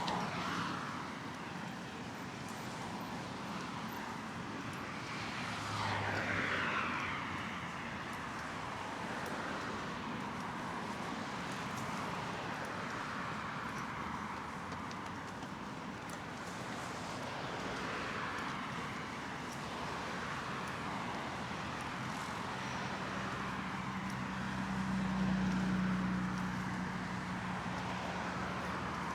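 Road traffic: cars passing one after another, each swelling and fading. Near the end a heavier engine hum builds to the loudest point, then eases off.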